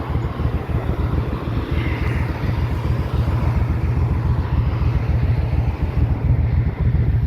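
Motorcycle running at steady road speed, its engine rumble mixed with wind noise over the microphone.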